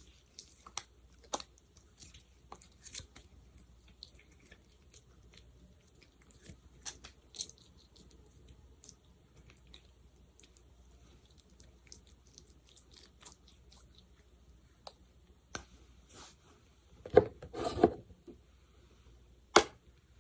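Close-miked ASMR sticky sounds of a sticky gel being worked: scattered soft clicks and tacky crackles, with a louder cluster of sticky crackling about 17 seconds in and one sharp click near the end.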